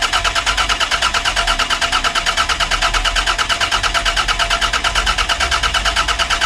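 Toyota Celica's freshly swapped engine being cranked by the starter motor, turning over in an even rhythm of about seven beats a second without catching.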